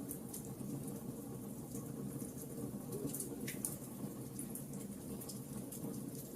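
Bonfire crackling: irregular sharp pops and snaps over a steady low rumble from the burning.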